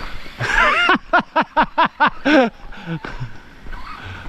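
A person's voice: a short cry, then a quick run of about seven short falling syllables, like laughter.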